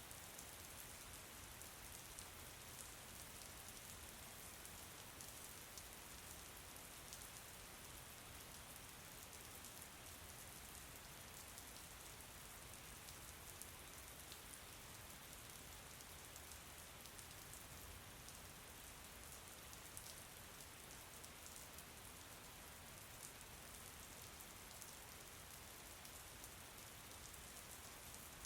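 Steady, soft rainfall, with many fine drop ticks pattering on a surface.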